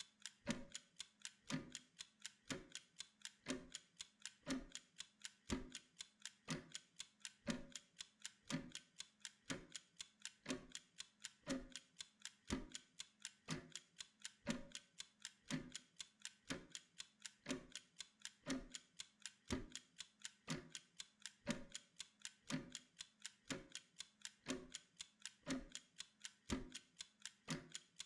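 Mechanical kitchen timer's clockwork ticking steadily and evenly, several ticks a second, counting down a timed work interval.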